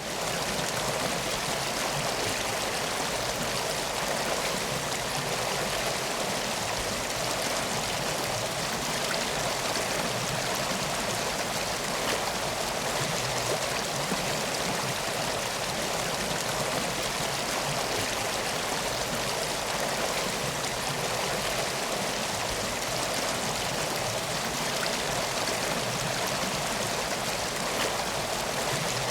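Swollen Teesta River in flood: fast-flowing water rushing steadily, with no change from start to end.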